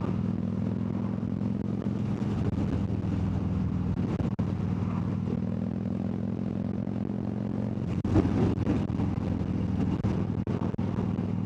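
Harley-Davidson Dyna Wide Glide's 103-cubic-inch (1690 cc) V-twin running steadily under way, with a brief louder rush about eight seconds in.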